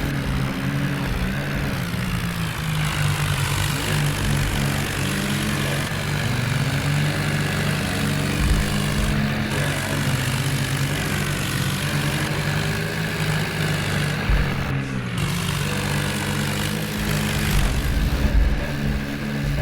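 Heavy diesel engine running steadily; its note drops briefly about three quarters of the way through, then picks up again.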